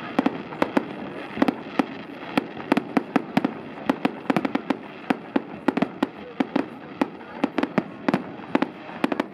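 Fireworks display going off: a rapid, irregular series of sharp bangs and cracks, about three or four a second, over a steady background din.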